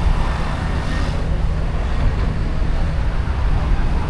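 Steady road traffic noise, a continuous rumble with no single event standing out.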